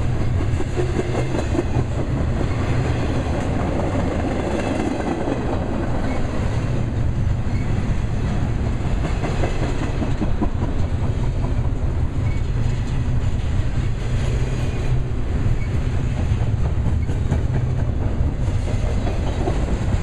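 Double-stack intermodal freight cars rolling past close by: a steady, loud rumble and clatter of steel wheels on the rails.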